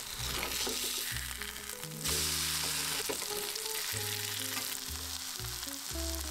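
Grated-potato pancake (raggmunk) sizzling as it fries in fat in a stainless steel frying pan. The sizzle gets louder about two seconds in, as the pancake is flipped onto its uncooked side.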